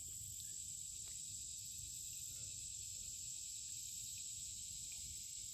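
Steady, high-pitched insect chorus over a faint low rumble, with a couple of faint clicks.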